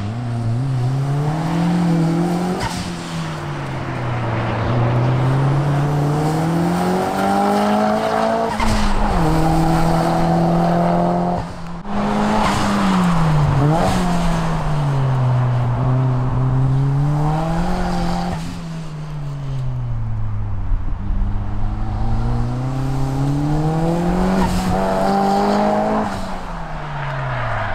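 First-generation Toyota MR2 engine worked hard through a tight timed course, its revs climbing and dropping again and again as the car accelerates, lifts and brakes between the cones.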